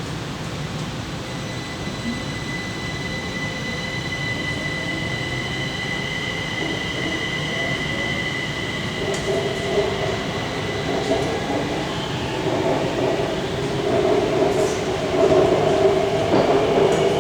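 Kaohsiung MRT train running between stations, heard inside the car: a steady rumble of wheels on rail under a high, even electric whine. The whine fades about two-thirds of the way in, while a lower wheel squeal grows louder through the second half.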